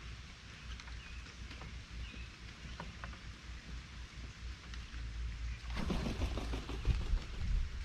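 Outdoor ambience at a bird feeder: a few faint bird chirps and scattered light clicks over a steady low rumble. A little under six seconds in, a louder burst of dense rustling and clicking lasts under two seconds.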